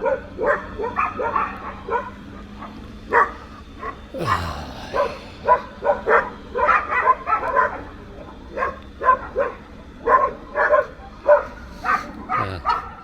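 Dogs barking in short, irregular runs of barks. About four seconds in, and again near the end, comes a noisy whoosh that falls in pitch.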